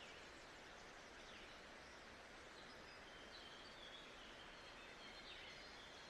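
Faint nature ambience: a steady, even hiss with faint bird chirps scattered through it, a few of them short sliding calls.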